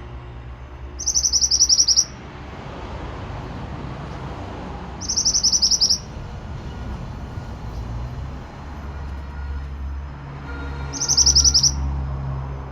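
Pied bushchat (mantenan) singing three short, fast, buzzy trills of high notes, each about a second long and several seconds apart, over a steady low hum.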